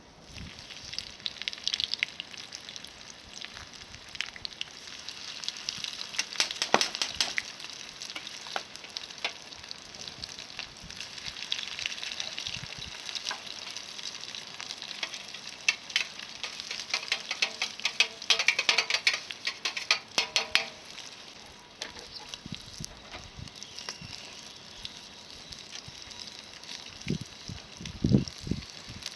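Breaded shrimp deep-frying in hot oil over a campfire: steady sizzling with frequent sharp spitting pops, busiest about two-thirds of the way through. A few low thuds come near the end.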